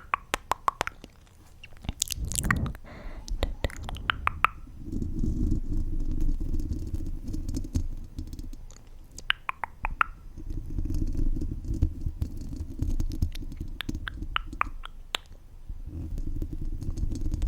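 Close-miked ASMR mouth sounds: short runs of wet mouth clicks alternate with stretches of low, muffled rumbling, each lasting a few seconds.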